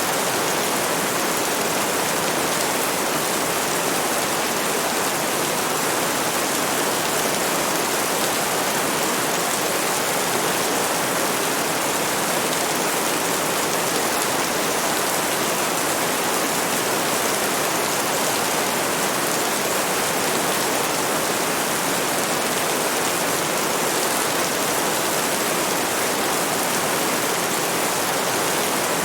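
Steady, heavy rain falling, an even dense hiss with no distinct drops or thunder.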